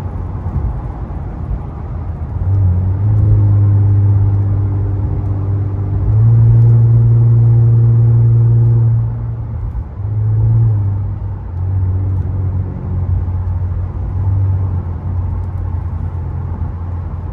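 Infiniti Q50's VR30 3.0-litre twin-turbo V6 exhaust droning from inside the cabin while driving, with a steady low note that swells louder under throttle several times. It is loudest for about three seconds in the middle, then comes back in shorter swells.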